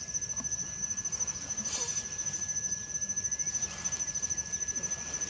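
Insects trilling: a steady, high-pitched, rapidly pulsing song that runs without a break, with a second, lower steady tone beneath it.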